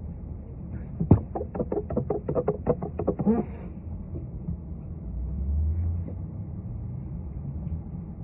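Steady low rumble of a city bus heard from inside. About a second in comes a sharp click, followed by a quick run of about a dozen knocks, roughly five a second, lasting a couple of seconds.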